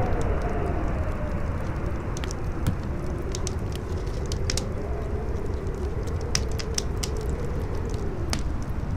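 Campfire crackling with scattered sharp pops, over strong howling wind whose whistle wavers up and down in pitch.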